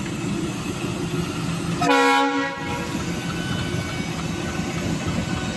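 WDM-3D diesel locomotive running with a steady engine rumble, and one short horn blast, lasting well under a second, about two seconds in.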